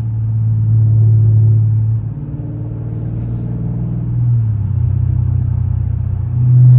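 Dodge Scat Pack's 6.4-litre HEMI V8 droning at a steady road speed. Its pitch drops right at the start, then rises a little and gets louder near the end.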